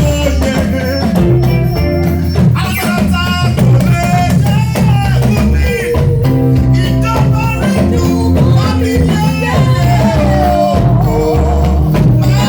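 Live praise band music: bass guitar and drums with a wavering singing voice over them.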